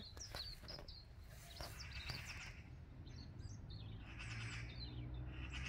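Faint chirps of small birds, several short high calls scattered mostly through the first half, over a steady low outdoor rumble.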